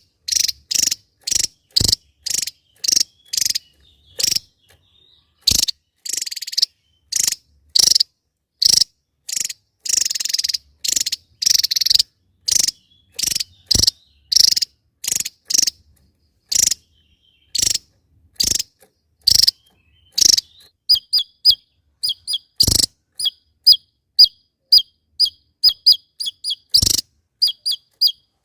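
Javan tesia calling: a long series of short, harsh notes, about one or two a second. About two-thirds of the way through they change to quicker, sharp, clipped chirps about two a second, with two louder clicks among them.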